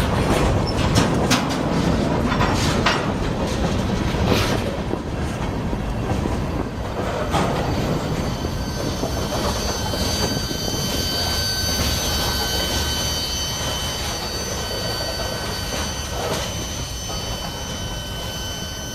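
CSX freight train cars rolling past with a steady low rumble and clicks of wheels over the rails. From about eight seconds in, a high steady wheel squeal joins in. The sound slowly fades toward the end.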